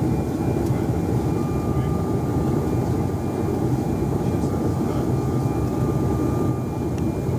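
Steady cabin noise inside a Bombardier CRJ-900 jet: a deep rumble of air and engine noise with a thin, steady high whine.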